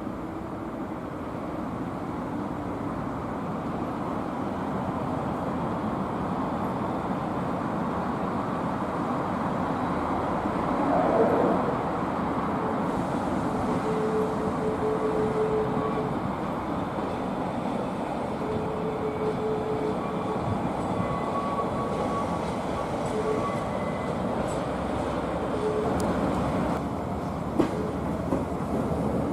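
Train running on rails through a station: a steady rumble of wheels on track that slowly builds, with faint steady whining tones and a few sharp clicks near the end.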